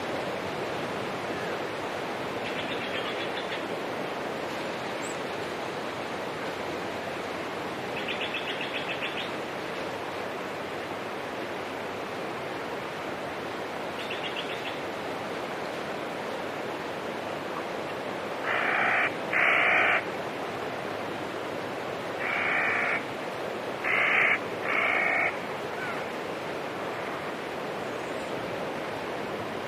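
Outdoor nature soundscape: a steady rushing hiss of water or surf, with a bird's short trilled calls three times in the first half. In the second half come five loud, short, harsh calls in quick groups.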